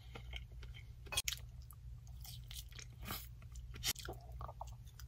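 A person chewing and biting into a piece of herb-seasoned chicken breast, with irregular wet mouth clicks and smacks over a steady low hum.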